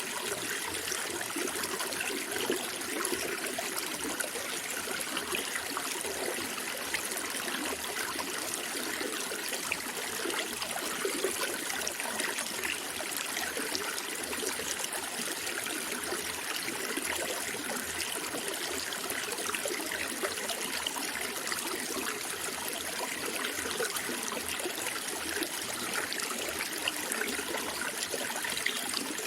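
Water of a small stream running and trickling steadily, with a constant rushing hiss and light, irregular gurgles.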